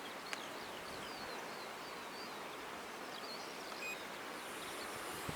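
Small birds chirping and twittering in quick, high, short notes over a steady outdoor hiss of wind and sea.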